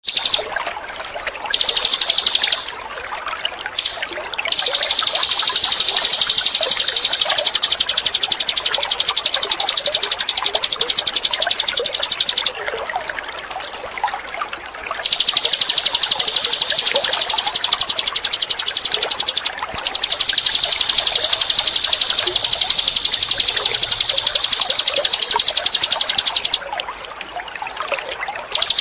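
A small songbird, the 'ninin eurih' of Indonesian bird keepers, singing a very fast, high-pitched trill. It comes in long runs of several seconds with short breaks between them, over steady trickling water.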